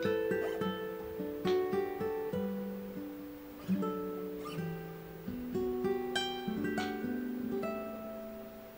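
Background music: a gentle piece of plucked guitar notes, one after another, each ringing and fading.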